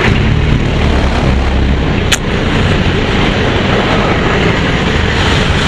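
Wind rush and engine and road noise of a motor scooter being ridden, steady throughout, with one brief sharp click about two seconds in.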